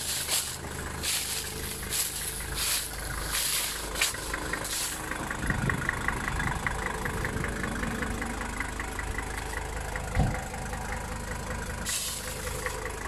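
Car engine idling steadily. In the first few seconds there are several short hissing bursts. From about five seconds in a fast, light ticking joins the idle, and there is a single thump about ten seconds in.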